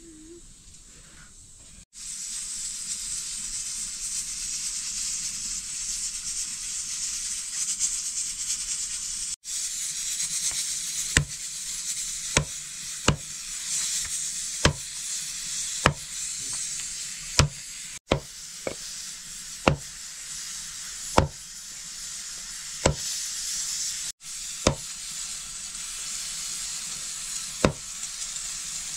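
Food frying in hot oil in a cooking pan: a steady sizzle. From about a third of the way in, it is joined by sharp knocks roughly every second and a half.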